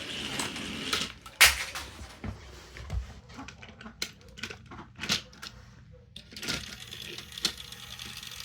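Toy train engines running on plastic track in a head-to-head race, with irregular plastic clicks and clacks over a faint motor hum; the sharpest click comes about a second and a half in.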